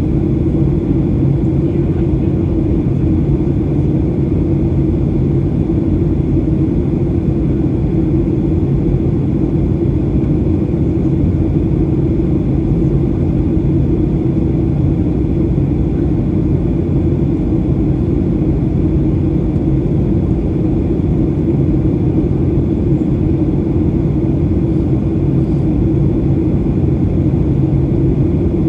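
Cabin noise inside a Boeing 737-800 in flight: the steady drone of airflow and its CFM56-7B turbofan engines, with a constant low hum and no change in pitch.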